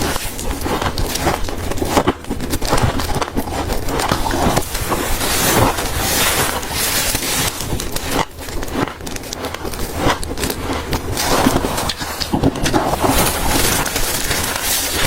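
Close-up crunching of freezer frost being bitten and chewed: a continuous run of crisp, crackly crunches.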